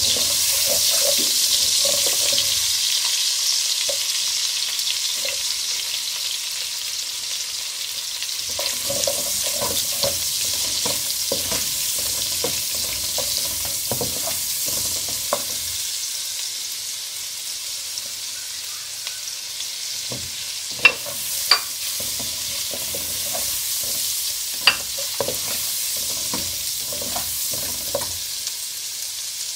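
Sliced garlic and spring onions sizzling in hot oil in a wok, the hiss slowly easing off. A metal ladle stirs and scrapes against the pan, with a few sharp taps about two-thirds of the way in.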